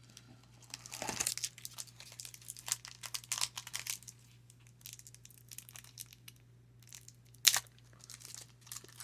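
A foil trading-card pack wrapper being torn open and crinkled, with dense crackling for the first few seconds and scattered rustles after. There is one sharp, loud snap about seven and a half seconds in.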